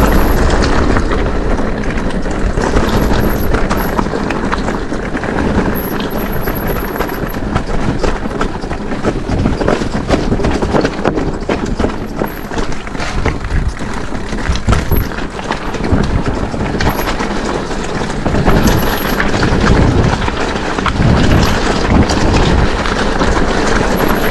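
Mountain e-bike riding up a rough, stony track: continuous tyre crunch and frame rattle with frequent knocks from the bumps, under wind buffeting on the helmet or bike camera's microphone.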